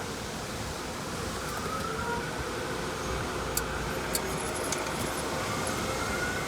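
Steady rumble and hiss of an idling car and car-wash machinery. A faint whine rises twice and a few small clicks fall in the middle.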